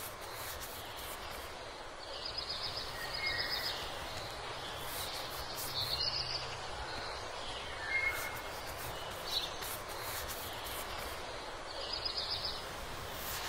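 Birds chirping now and then, a few short high chirps and trills, over a steady outdoor background hiss.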